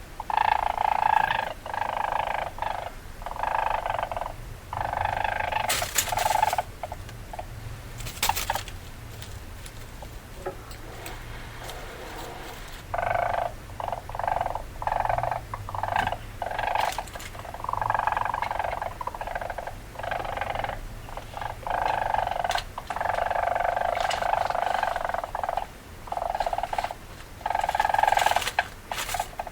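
Weasel calls: a string of rapid chattering bursts, each lasting about half a second to two seconds, repeated with short pauses, with a quieter spell about a third of the way through.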